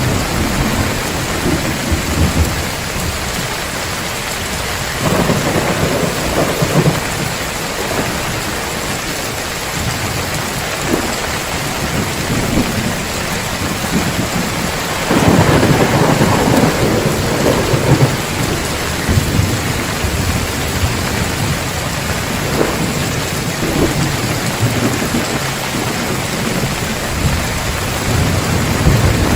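Heavy rain falling steadily on a tiled roof, with rolls of thunder swelling up under it, the strongest about halfway through.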